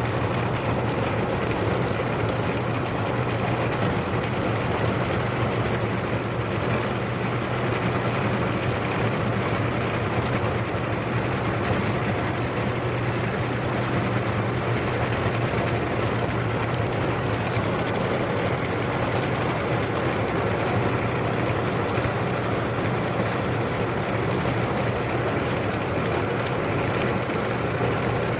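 Metal lathe running steadily under power, taking a turning cut on a metal workpiece, with a constant motor hum.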